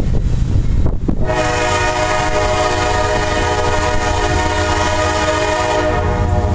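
Locomotive air horn sounding one long chord blast. It starts about a second in, lasts about four and a half seconds and stops shortly before the end, over a steady low rumble and wind on the microphone.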